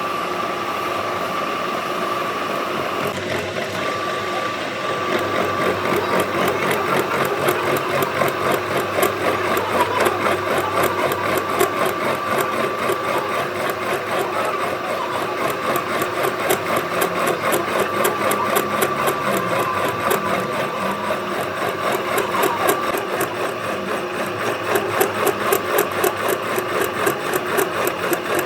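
Metalworking machine tool running, with a steady whine and a fast, even ticking clatter that sets in about five seconds in.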